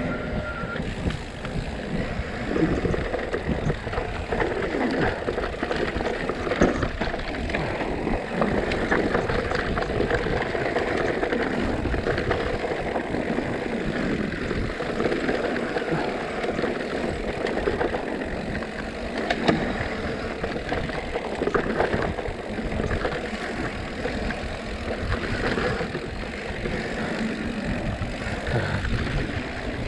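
Mountain bike riding fast down a dirt trail: wind rumbling over the microphone, tyres on loose dirt and the bike rattling, with a couple of sharp knocks from hitting bumps.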